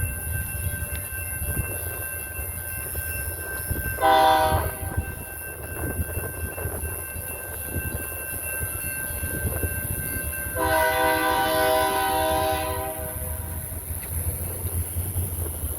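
BNSF diesel locomotive horn sounding for a grade crossing over the low rumble of the moving freight train. There is a short blast about four seconds in and a longer one of about two seconds near the eleven-second mark.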